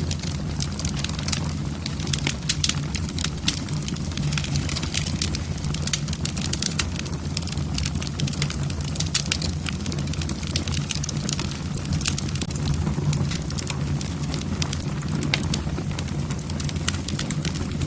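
Wood fire in a fireplace, the logs crackling with many quick, irregular pops over a steady low rumble.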